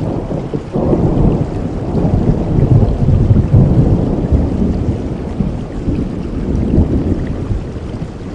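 A thunder roll over steady rainfall. The deep rumble swells about a second in, is loudest in the middle, and slowly dies away near the end.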